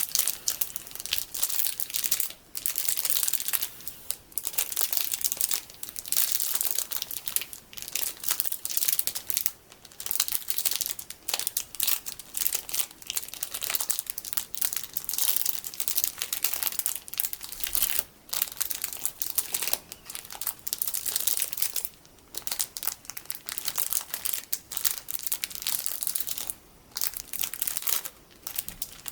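Plastic packaging holding colourful sticky beads being crinkled: a dense, crackly rustle of plastic in runs, broken by several short pauses.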